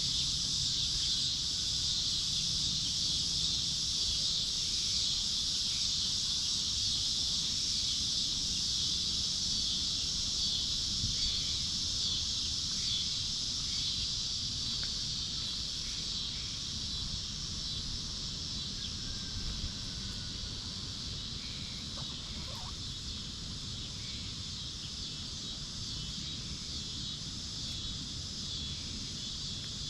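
Steady insect chorus: a continuous high-pitched shrill drone that eases slightly in loudness in the second half, over a faint low rumble.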